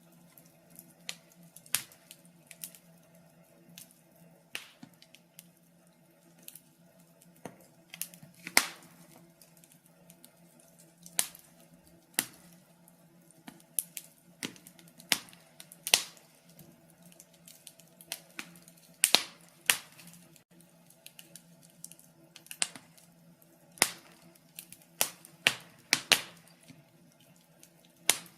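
Wood fire in a fireplace crackling, with irregular sharp pops and snaps of varying loudness, over a faint steady hum.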